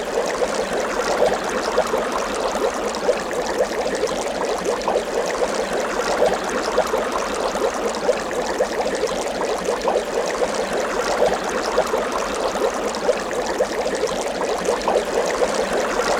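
Water trickling and bubbling steadily, with many small splashes and gurgles.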